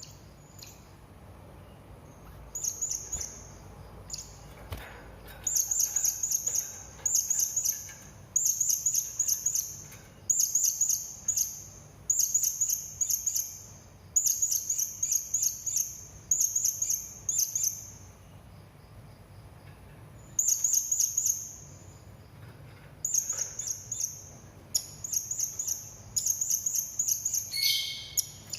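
Serindit (hanging parrot) calling in rapid runs of high, thin chirps, each run about a second long and repeated every couple of seconds, with a pause of a few seconds around the middle and a single falling call near the end. It is a lure call meant to make other serindits answer.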